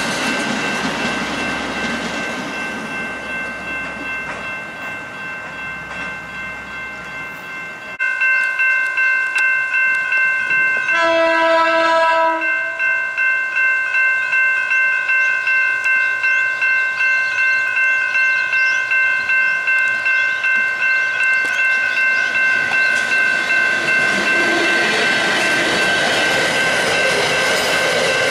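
Level crossing bells ringing in a steady pulsing rhythm while a freight train's wagons roll past. Partway through, a diesel locomotive sounds its horn once for about a second and a half, and near the end the wagons of a container train rumble across the crossing under the bells.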